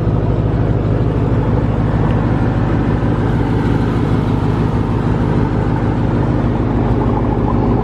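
The 2018 Jeep Grand Cherokee Trackhawk's supercharged 6.2-litre V8 running steadily with a low, even hum, not revving.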